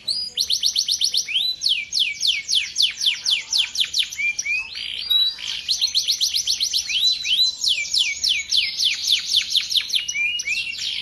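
Male canary singing a long unbroken song of fast trills: rapid series of high sweeping notes, about seven a second, changing from one trill type to the next.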